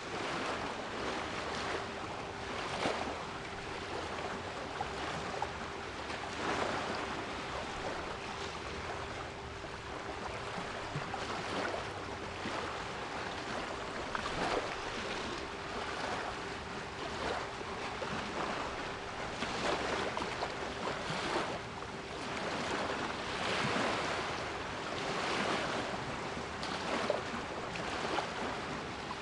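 Sea waves washing in a continuous hiss of surf with repeated surges, mixed with a steady 396 Hz pure tone held underneath.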